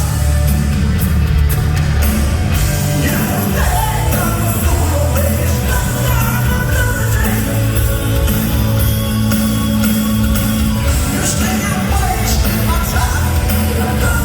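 Live rock band playing loudly, with a male lead singer over heavy bass, drums and guitars.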